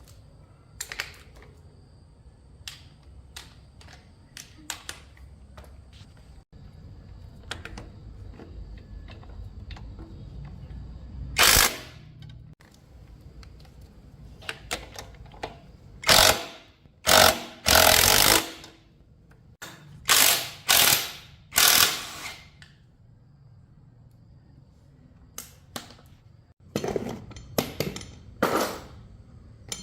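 Mechanic's hand tools working on a SYM 110 motorbike: scattered metal clicks and ratcheting, with several short, loud rasping bursts in the second half.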